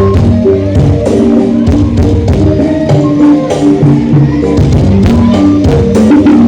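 Loud music with heavy bass, a melody line and a drum beat, played at full volume through a large carnival sound system.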